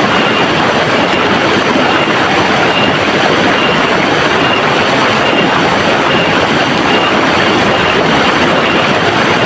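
River water rushing and splashing, a loud, steady wash of noise that does not change.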